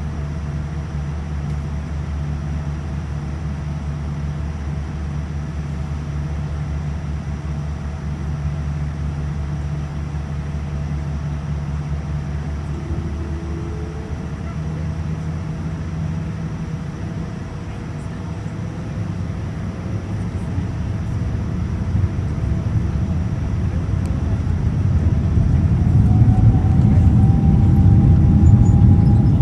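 Boeing 787-9's Rolls-Royce Trent 1000 turbofans, running steadily at low power with a low hum. From a little past halfway they grow louder, and near the end a rising whine comes in as the engines spool up for takeoff.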